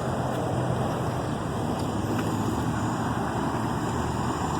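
Steady road traffic noise, with a low engine hum underneath.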